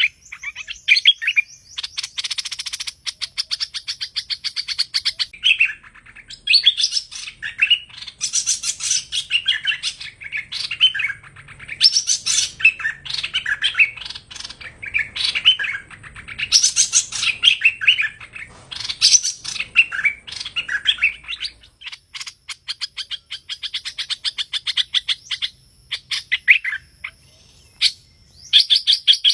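Hoành hoạch bulbul singing: a continuous run of varied bright chirping phrases broken by fast rattling trills. This is the call used to lure the bird into traps.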